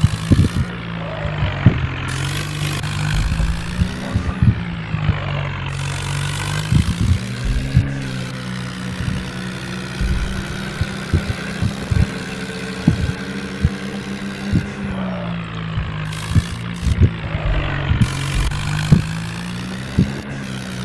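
Tractor engine running, its speed dipping and picking up again several times, with frequent knocks and rattles.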